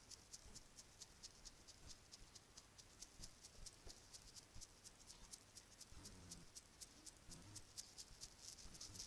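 Bracelets being tapped and handled, making a quiet, steady run of light, crisp clicks at about five or six a second.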